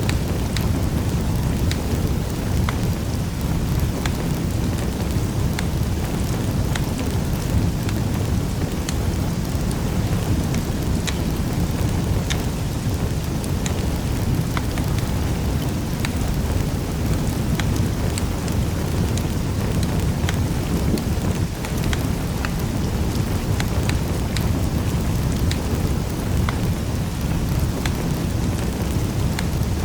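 Fireplace fire crackling: a steady low rumble under frequent small pops and snaps scattered irregularly.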